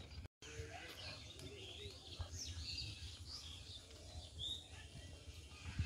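Faint birds chirping: many short, quick calls over low outdoor background noise.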